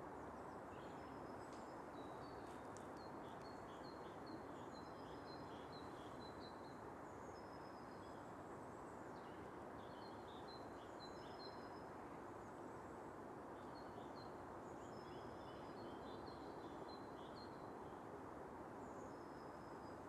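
Faint birdsong: small birds chirping in runs of quick high notes that come and go, over a steady background noise.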